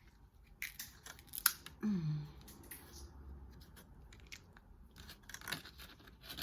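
Close-up eating sounds from a seafood boil: crab shell cracking and snapping in a series of sharp clicks, with chewing. A short falling vocal sound comes about two seconds in.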